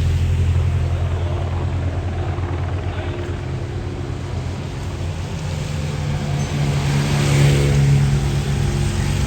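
Motor vehicle engines running steadily, one growing louder and passing about seven to eight seconds in, over a steady hiss of rain.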